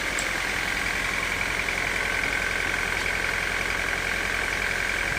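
Sawmill machinery running steadily: a constant mechanical drone with a high whine that splits into two tones about two seconds in.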